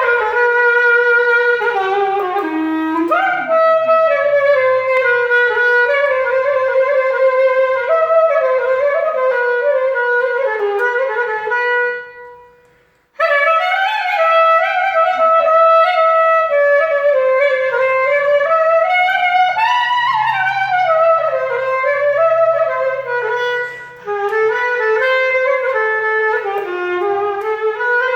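A single-reed wind instrument playing a melody full of slides and ornaments on a repaired Bon plastic mouthpiece, its broken tip rebuilt and the mouthpiece reopened and voiced. The playing breaks off for about a second a little before halfway, then goes on.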